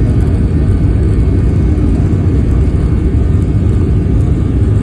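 Boeing 737 jet engines giving a loud, steady low rumble during takeoff.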